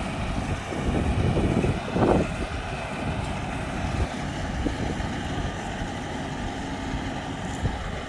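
Tractor engine running steadily as it drives a B70 round baler, with the baler's machinery noise underneath. There is a louder surge about one to two seconds in, and a few light knocks later.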